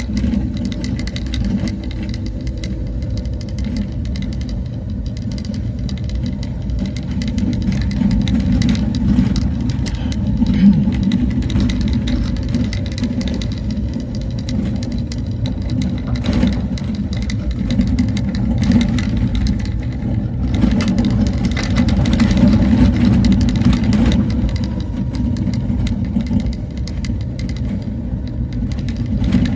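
A motor vehicle driving along a road: steady engine and road rumble, with scattered brief knocks and rattles.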